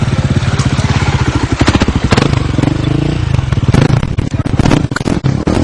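Enduro dirt-bike engine revving hard, its pitch rising and falling a few times, with a rapid firing rattle and a few sharp clacks.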